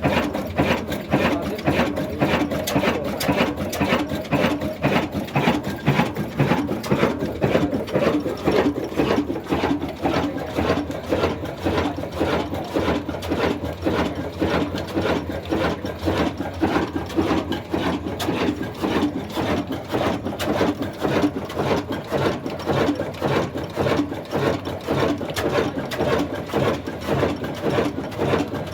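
Old single-cylinder Ruston Hornsby diesel engine running steadily, with a fast, even mechanical beat.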